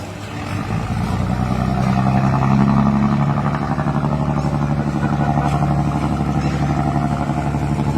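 Scania 550 hp marine diesel engine of a river passenger boat running hard under load. Its note dips at the start, builds back up over the first couple of seconds, then holds a steady, deep running sound.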